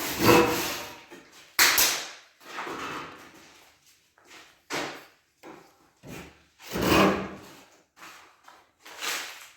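A series of uneven scraping strokes, about one every second, each a short rasping rub with quiet gaps between.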